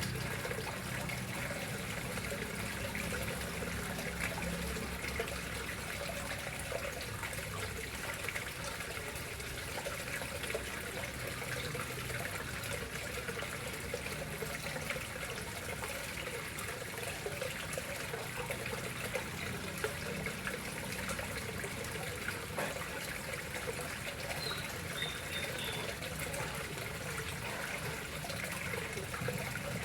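Water flowing steadily into a koi pond, a continuous trickle.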